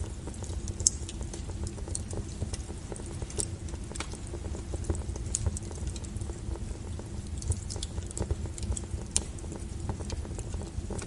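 Firewood fire crackling, with many irregular sharp snaps and pops over a steady low rumble of the flames; one louder pop about a second in.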